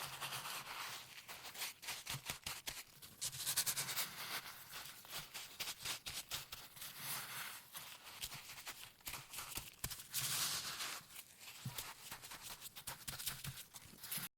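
Salt-crust mixture for a salt-baked pork being worked close to the microphone: gritty scraping and crunching of the coarse salt with many small clicks and taps, with brief brighter scratchy stretches about 3 s and 10 s in.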